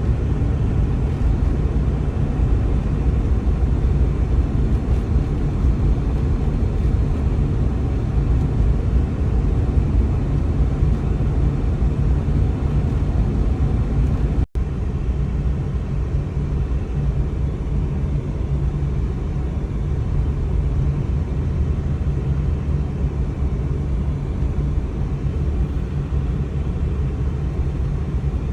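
A car driving on a snow-covered road, heard as a steady low rumble of tyres and engine, with a momentary break in the sound about halfway through.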